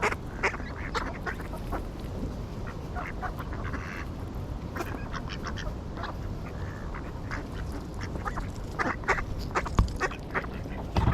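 Ducks quacking in many short, irregular calls, over a steady low background rumble.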